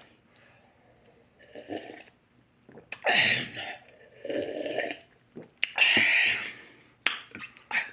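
Close-up eating sounds from a person's mouth: chewing, wet mouth noises and breathy exhales in about five short bursts, with a few sharp clicks between them.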